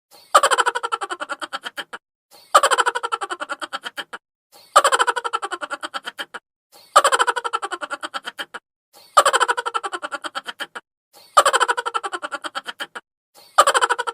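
Chipmunk laughter sound effect: a sped-up, high-pitched laugh made of a quick run of 'ha' pulses that fade away, repeated in a loop about every two seconds.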